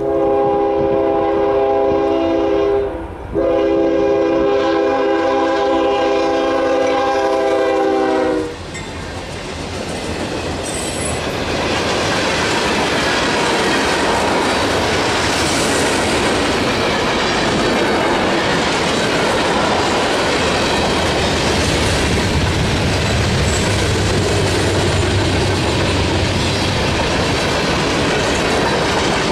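Freight train locomotive's air horn sounding a chord of several tones in two blasts, a shorter one then a longer one ending about eight seconds in. Then the steady noise of loaded freight cars rolling past, wheels running over the rails.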